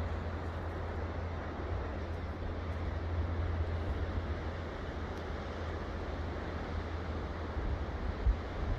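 Steady wash of ocean surf with wind rumbling on the microphone, and one brief low bump near the end.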